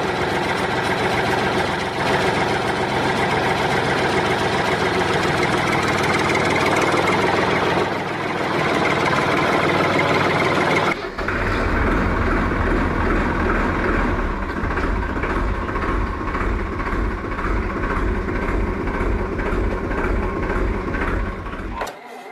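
Engine running steadily, then turning into a deeper, pulsing rumble about halfway through, and cutting off abruptly just before the end.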